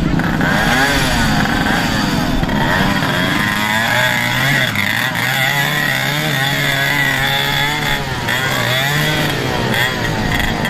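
Dirt bike engines revving, their pitch rising and falling over and over.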